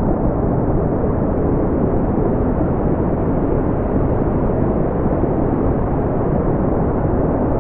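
Brown noise: a steady, deep rushing hiss with most of its weight low down and little treble, unchanging throughout.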